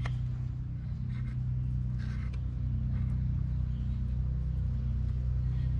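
Steady low mechanical hum, with a few faint clicks and a short scrape about two seconds in.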